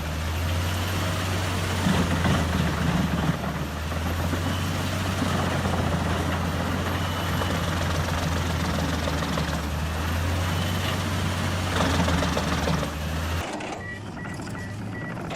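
Large engine of heavy machinery running steadily under load, with a broad rough noise over the drone. About 13 seconds in the sound cuts to a quieter scene with a faint, rapid high beeping.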